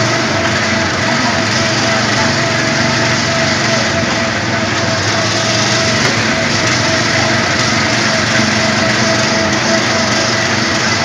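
Small engine of an Autopia ride car running steadily, heard from on board.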